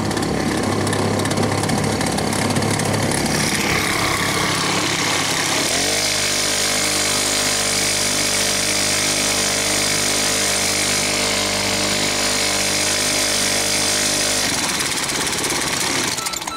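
Small outboard boat motor built from a 2.6 hp lawnmower engine, running continuously. About six seconds in, its note rises and settles into a steady, clearer pitch, then falls back about fourteen and a half seconds in.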